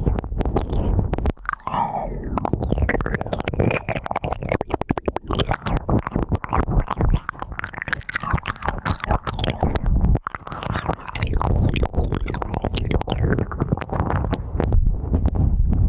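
Close-miked ear cleaning: an ear pick scratching and rubbing in the ear, a dense run of small irregular crackling scrapes over a low rumble.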